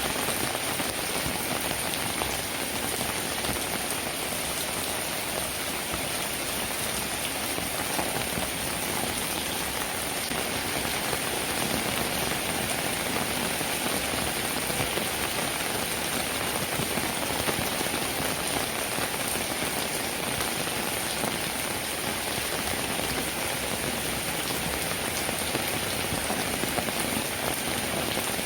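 Steady rain falling: a dense, even hiss of countless drops, with fine pattering and no let-up.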